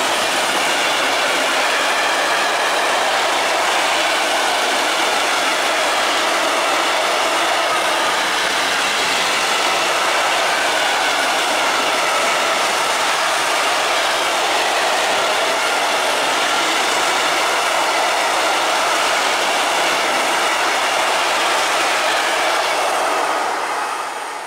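Freight train of open coal wagons running through at speed: a loud, steady rush and rumble of steel wheels on the rails with a faint ringing squeal. It fades away near the end as the last wagon passes.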